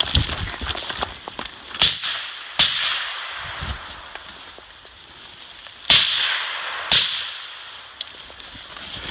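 Gunshots on an outdoor shooting course: two pairs of sharp cracks a few seconds apart, each with a trailing echo, then a fainter crack near the end.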